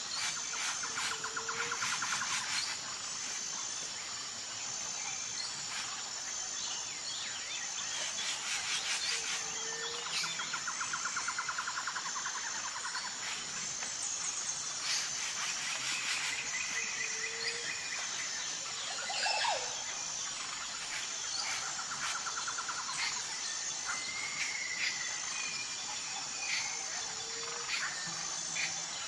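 Natural outdoor ambience: insects chirring steadily in a high, evenly pulsing drone, with birds calling over it in repeated trills and scattered short chirps.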